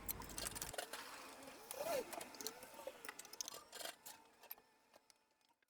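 Faint outdoor ambience with scattered short chirps and clicks, fading to silence about four and a half seconds in.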